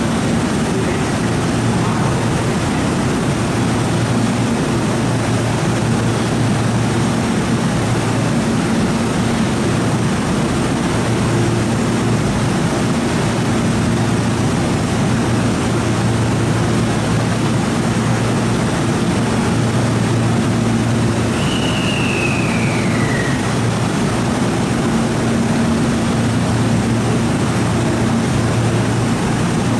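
Steady, loud drone of a train standing at a station platform with its on-board equipment running, a low hum under an even hiss. About two-thirds of the way through, a short whistle-like tone falls in pitch.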